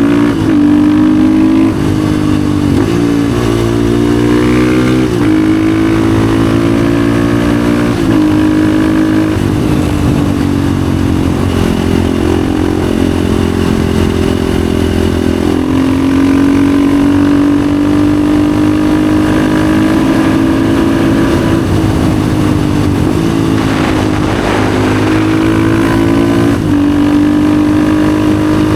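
Husqvarna FE 450's single-cylinder four-stroke engine through an FMF exhaust, ridden hard: the engine note climbs steadily and then drops abruptly at each gear change or throttle lift, several times over.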